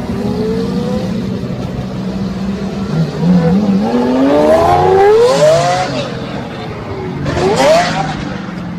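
Car engine idling, then revved twice: a long rise and fall in pitch about three to six seconds in, and a shorter, sharper rev near the end.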